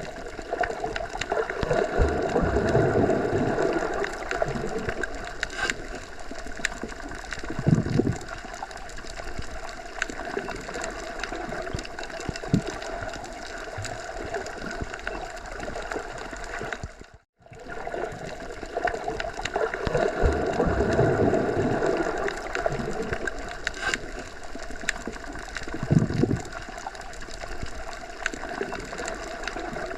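Looped outdoor nature ambience: a steady rushing noise that swells for a few seconds, with a low thud about 8 seconds in. About 17 seconds in the sound cuts out for an instant and the same loop starts over, repeating the swell and the thud.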